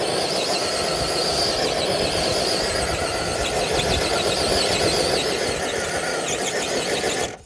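Electric RC truck's motor and drivetrain whining and squealing under heavy load as it drags a weighted dead sled, then cutting off abruptly near the end when the run stops.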